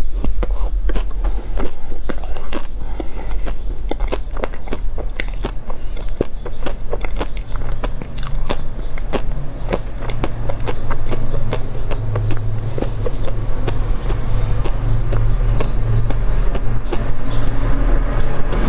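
Close-up mukbang eating sounds: crunching and chewing clicks, many a second, thinning out in the second half, over a steady low rumble that grows louder about halfway through.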